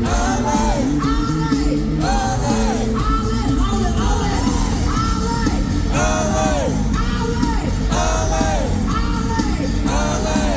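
Live funk band playing an upbeat groove, with short yelled vocal phrases repeating about once a second over it.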